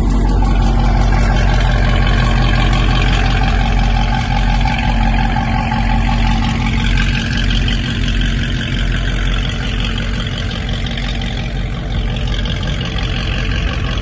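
Car engine idling, a loud, steady, deep rumble that holds without revving.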